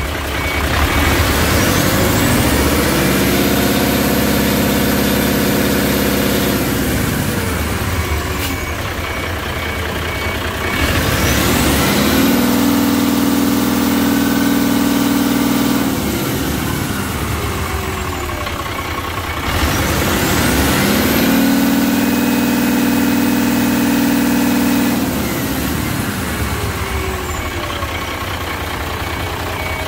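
Truck engine revved up three times, held at a steady higher speed for about four seconds each time and let back down to idle, with a high whistle rising and falling with each rev.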